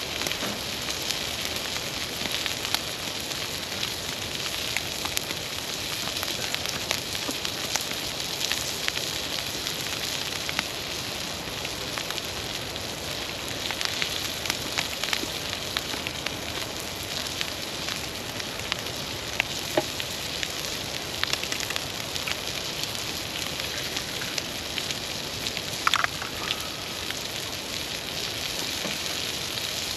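Campfire crackling and sizzling: a steady hiss with frequent sharp pops.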